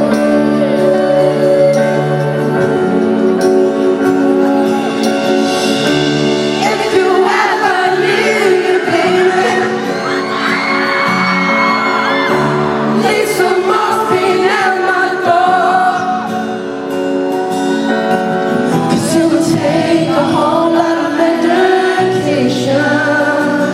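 Live band playing a slow pop ballad in a large hall: held keyboard chords, joined after several seconds by a male singer's wordless vocal runs.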